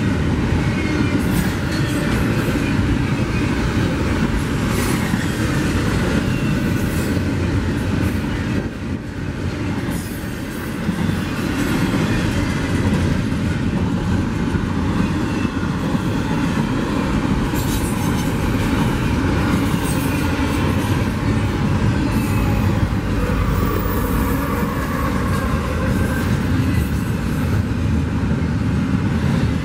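Union Pacific double-stack container freight train passing at speed: a steady rumble and rattle of wheels and cars on the rails, with sharp clicks from the wheels. It eases briefly about nine seconds in.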